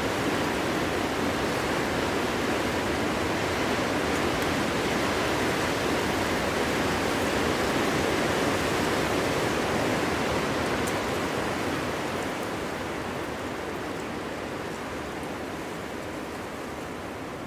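Cold winter wind blowing through forest trees: a steady rushing noise that swells slightly in the middle and eases off over the last few seconds.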